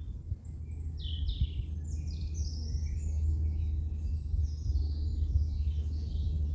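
A songbird singing a run of quick high chirps and short falling notes, over a steady low rumble.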